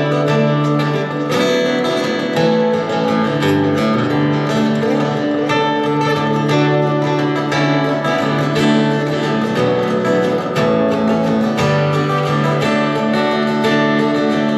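Acoustic guitar strummed and picked in an instrumental break of a live country-folk song.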